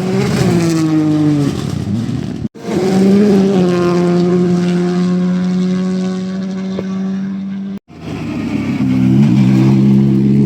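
Rally cars going flat out past, engines at high revs, in three pieces split by two abrupt cuts. First an engine note that falls, then a long steady high-rev run, then a car accelerating with its pitch rising.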